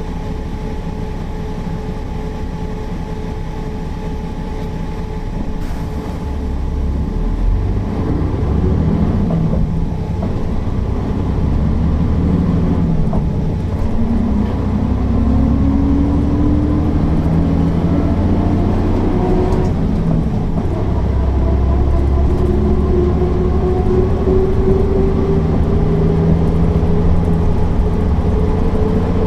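Mercedes-Benz O408 bus's diesel engine idling steadily, then pulling away about seven seconds in and accelerating, its pitch rising and dropping back several times as it goes up through the gears.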